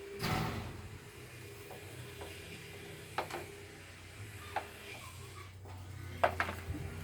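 A few scattered knocks and clicks of handling over a faint steady hum, with a brief rustling scrape just after the start.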